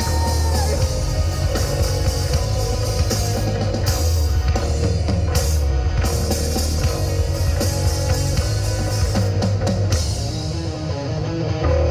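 Live rock band playing an instrumental passage, with distorted electric guitars, bass and a drum kit and no vocals. A held note fades out about half a second in.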